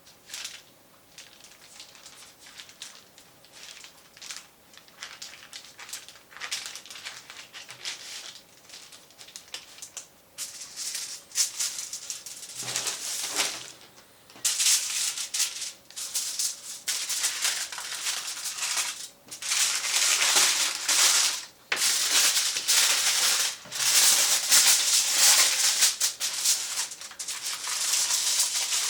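Food being worked by hand in a kitchen: stop-start rattling and scraping strokes with short pauses, faint at first and much louder from about ten seconds in.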